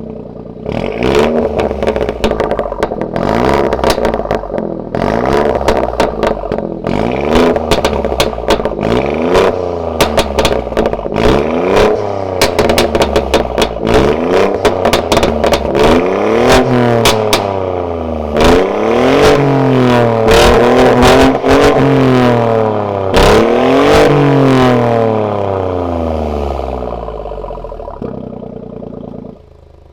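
BMW F23 2 Series convertible revved repeatedly through an aftermarket Varex valved exhaust, the engine note climbing and falling with each blip, with many sharp pops and cracks between revs. The revs are longer and higher in the second half, then the engine settles back toward idle near the end.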